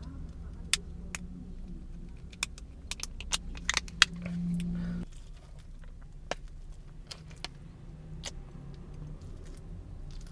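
Scattered sharp clicks and light taps over a steady low hum, with a louder hum for about a second near the middle.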